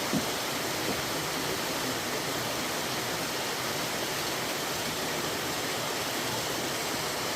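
Mountain valley stream rushing steadily over rocks, a continuous even sound of running water.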